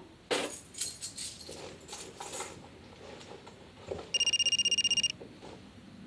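A clatter of small hard objects clicking and clinking for a couple of seconds, then a mobile phone ringing: a rapid electronic trill lasting about a second, starting about four seconds in.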